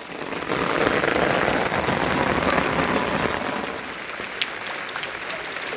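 Rain pattering densely, loudest for the first few seconds and then easing.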